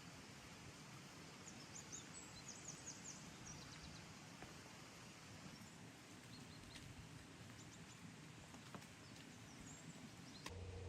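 Near silence: a faint steady hiss of background ambience, with short runs of faint, quick, high chirps about two seconds in and again near seven seconds.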